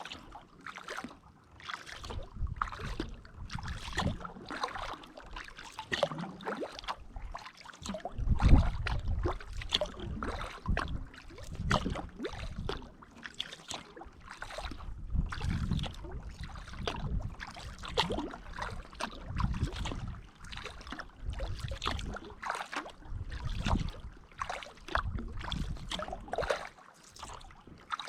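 Kayak paddle strokes through the water, repeating every second or two, with splashing and dripping from the blades.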